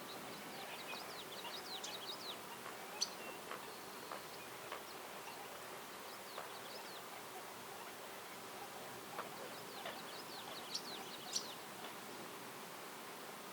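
Songbird singing two phrases of rapid high chirps, about a second in and again near the end, with a few single chirps between, over a steady outdoor background hiss.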